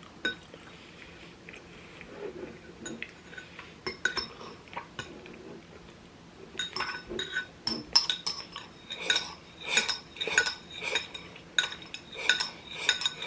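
Eating utensils clinking against a bowl and plate during a meal: a few scattered clinks at first, then quick, repeated clinks from about halfway through.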